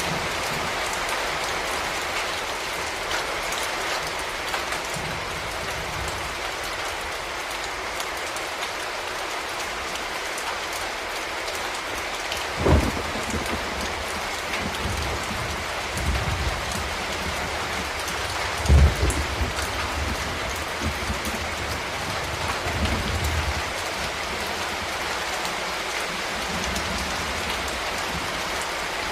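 Steady rain falling and pattering on a surface, an even hiss, with a couple of brief low thuds about a third and two thirds of the way through.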